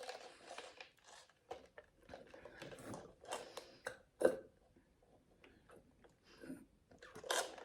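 Close-miked chewing and mouth sounds: short, irregular bites and chews that pause for a couple of seconds about two-thirds of the way through, then resume near the end.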